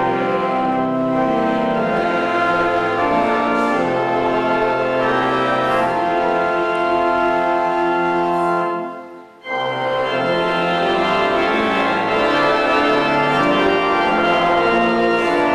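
Church organ playing a hymn in held, sustained chords that change every second or two. It breaks off for a moment about nine seconds in, then starts again.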